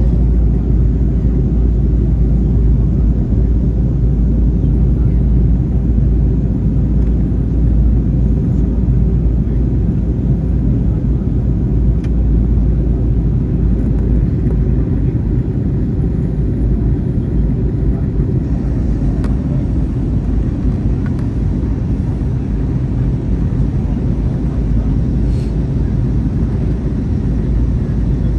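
Airbus A321 cabin noise heard from inside: a steady, loud low rumble of engines and airflow that holds even throughout.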